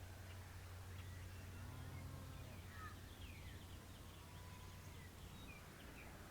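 Faint scattered songbird chirps and short whistles in the woods, over a low steady rumble.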